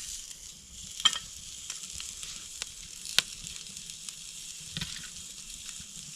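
Burger sizzling on a grill grate over a campfire: a steady frying hiss with scattered sharp crackles, the loudest about a second in and about three seconds in.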